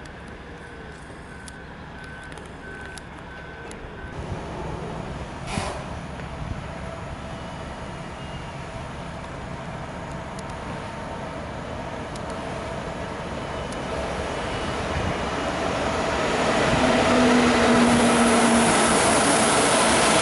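A train approaching along the track, its rumble and rail noise growing steadily louder over about a dozen seconds and staying loud near the end. During the first four seconds a repeating electronic beep sounds, and there is a single sharp knock about five and a half seconds in.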